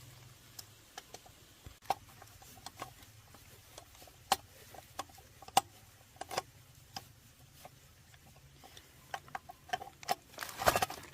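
Irregular small metallic clicks and clinks of tools and engine parts being handled during repair work, with a louder flurry near the end.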